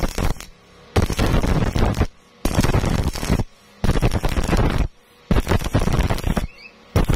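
Stick welding arc crackling and sputtering in bursts of about a second, cut off by short pauses of about half a second, five or six times over: the arc is being broken and struck again as the weld is laid.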